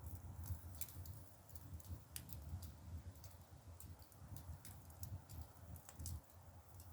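Split bamboo firewood burning in a traditional Korean agungi firebox: irregular sharp crackles and pops over a low steady rumble.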